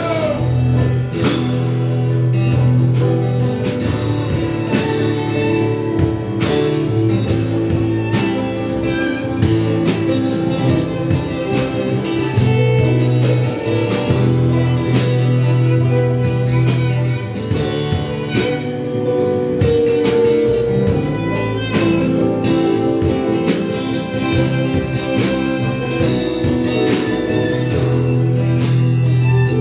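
A band playing an instrumental break with guitar out front, over sustained bass notes and a steady drum beat.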